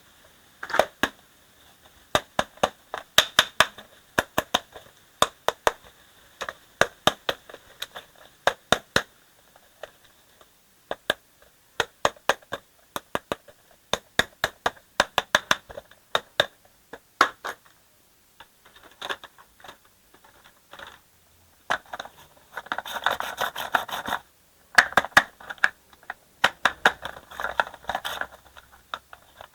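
Small hard objects clicking and knocking in quick clusters, the sound of a toy dump truck being played with, with a denser scraping rattle twice near the end.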